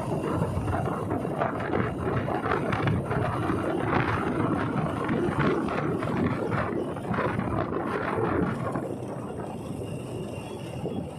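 Wind rushing and buffeting over the microphone with road noise while riding along a road, easing off a little near the end.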